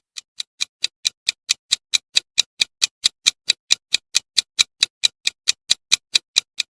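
Clock ticking sound effect, an even run of sharp ticks at about four and a half a second, as a quiz countdown timer.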